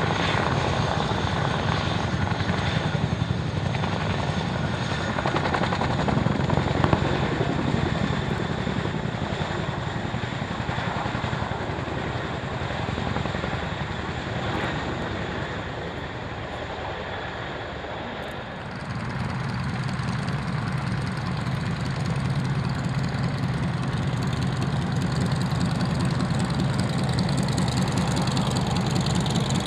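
Aircraft engine running steadily close by. About 19 seconds in, its low-pitched part grows stronger and it gets louder.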